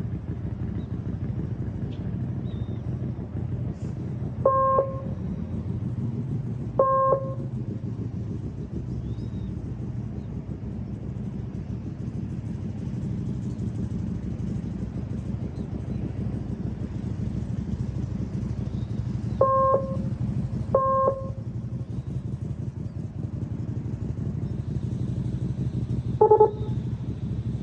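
Motorcycle engine running steadily at low speed with a low rumble. Five short beeps sound over it at uneven intervals: two in the first quarter, a close pair in the middle and one near the end.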